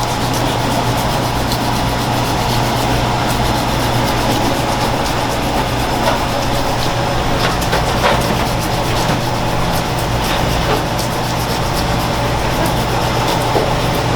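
Steady mechanical drone with a constant low hum, broken by a few faint short knocks.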